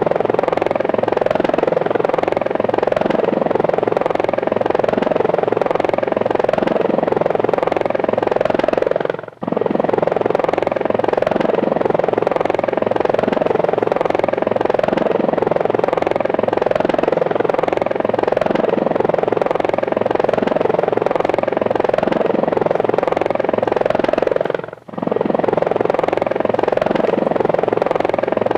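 Small remote-control aircraft's electric motors and rotors buzzing steadily, heard close up from the aircraft carrying the camera. The sound drops out briefly twice.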